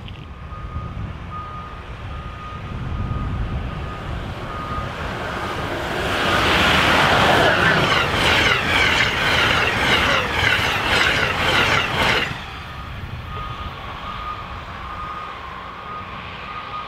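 A passenger train passing the platform at speed: a rumble builds, then a loud rush of wheels clattering over the rails for about six seconds, cutting off suddenly as the last car goes by. A faint electronic beep repeats throughout, clearest before and after the train.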